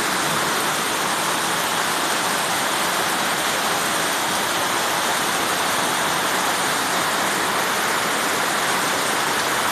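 Heavy rain pouring down steadily, a dense, even hiss of downpour.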